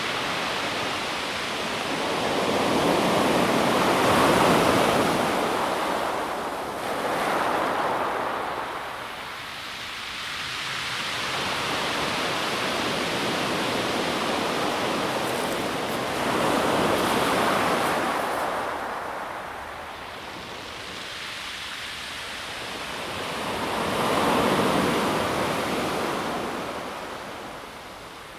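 Calm sea waves washing onto a pebble beach and drawing back, a steady wash of surf that swells four times, with gentler stretches between.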